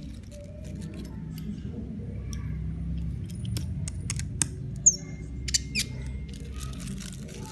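Small clicks and scrapes of hand tools and phone parts being handled, over a steady low rumble of handling noise. A few sharp clicks come a little past halfway, one with a brief high squeak.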